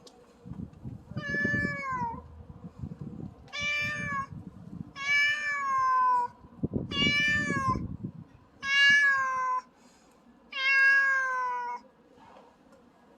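A domestic cat meowing six times in a row, each meow about a second long and falling in pitch at the end. A low rumbling noise sits under the first four meows.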